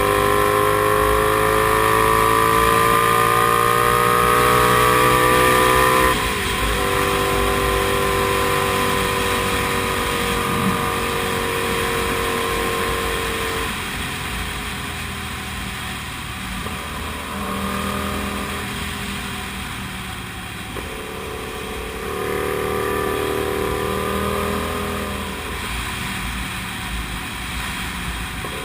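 Comet GTR 250 motorcycle's V-twin engine under way. Its pitch rises steadily under throttle for about six seconds, drops suddenly, then runs at lower revs that rise and fall several times.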